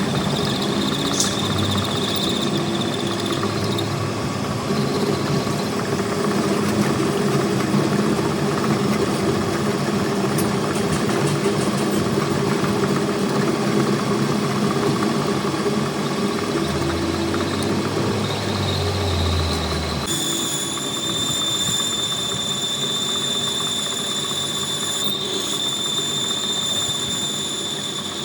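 A machine running steadily, with a high whine over a dense mechanical noise. The sound shifts about 20 seconds in.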